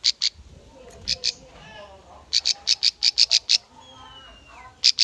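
Bar-winged prinia (ciblek) singing: sharp, high notes, first in pairs, then a fast run of about eight, with another run starting near the end. Softer, lower chattering and a thin falling whistle come between the runs.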